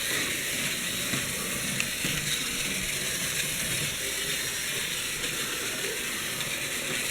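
Antique Märklin electric model train running steadily around a small loop of track, its motor and wheels on the rails making an even, unbroken whirring hiss.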